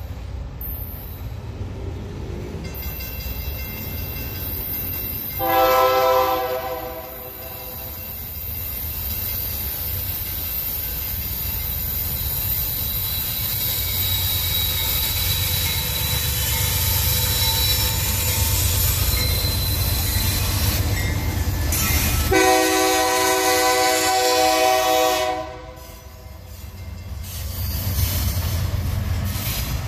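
Diesel locomotives of a loaded iron-ore freight train running with a steady low rumble, their air horn sounding twice: a short blast about five seconds in and a longer one of about three seconds past the twenty-second mark. Near the end the loaded ore gondola wagons roll past on the rails.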